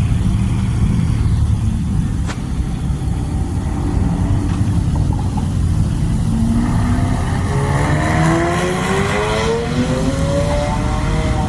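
Car engines running low, then about six seconds in one car accelerates away, its engine note climbing steadily for about four seconds before levelling off.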